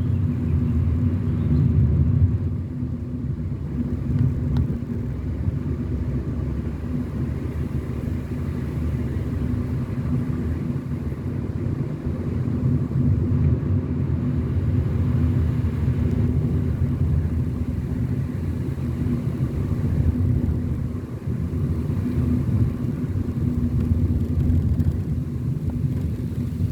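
Car engine and road noise while driving at a steady pace: a continuous low rumble with a steady hum.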